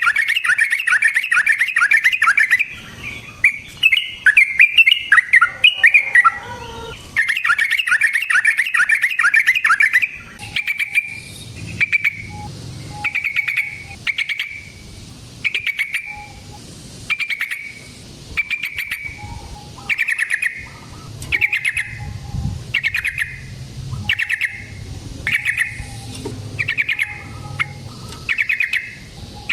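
Yellow-vented bulbul (trucukan) singing: loud, rapid bubbling chatter for the first ten seconds or so, then a long run of short calls repeated about once a second.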